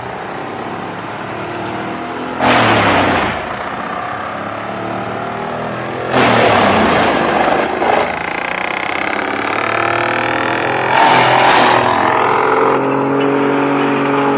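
Industrial wood chipper's engine running steadily under load, with three loud surges as logs are fed through and chipped.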